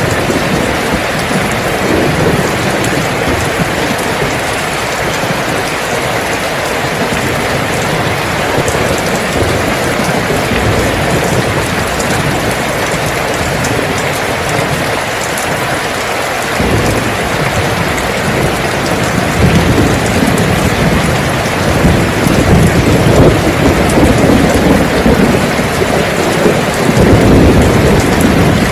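Heavy rain falling steadily, a dense hiss of drops. From about halfway through, a deep rumble of thunder swells in underneath and grows louder toward the end.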